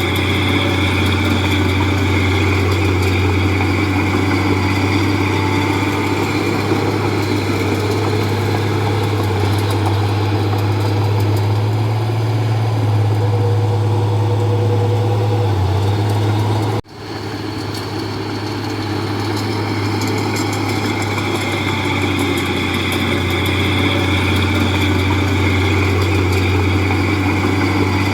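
Komatsu D31P bulldozer's diesel engine running steadily under a loud, even drone. The sound cuts out abruptly about two-thirds of the way through, then comes straight back.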